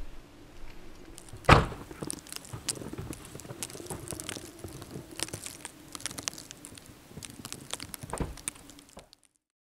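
A car door on an SUV thuds shut about a second and a half in, followed by light crunching and rustling of footsteps in snow, and a second, softer thump near the end. The sound cuts out abruptly just before the end.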